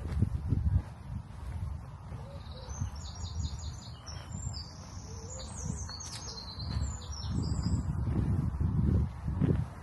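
A small songbird singing a fast, jumbled run of short high notes for about five seconds in the middle. Uneven low rumbling underneath is loudest at the start and again near the end.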